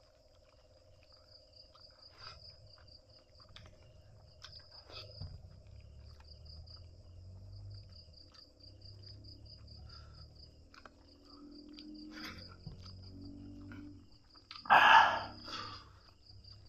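Crickets chirping in a steady, rapidly pulsing high trill, with scattered faint clicks and one louder brief noise about fifteen seconds in.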